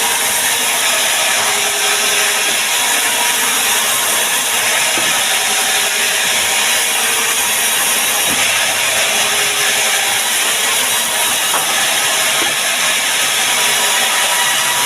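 Power saw cutting through mahogany timber: a steady, unbroken cutting hiss with no pauses.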